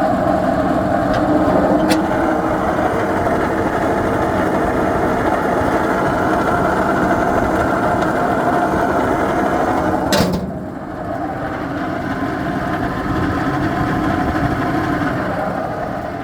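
Downblast exhaust fan running with a steady mechanical whir. A sharp click comes about ten seconds in, after which the sound is quieter.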